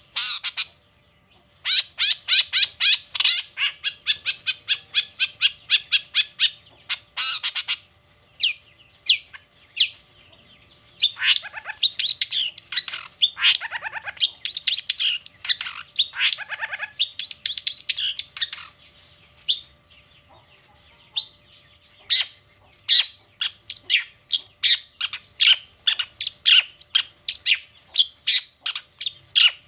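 Long-tailed shrike (cendet) singing in fast runs of sharp, repeated chirps. In the middle of the stretch it breaks into a denser, harsher, lower chatter, then goes back to quick high chirps after a short pause about two-thirds of the way through.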